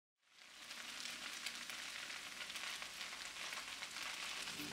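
Japchae, cellophane noodles and vegetables, sizzling quietly in oil in a nonstick pan as it is stirred with chopsticks. The sizzle fades in about half a second in and stays steady.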